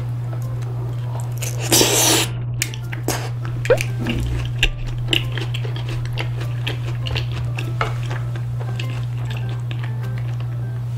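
Close-up mouth sounds of chewing a mouthful of rosé tteokbokki, chewy rice cake in creamy sauce: many small wet clicks and smacks. About two seconds in, one short puff of breath is blown to cool the mouthful. A steady low hum runs underneath.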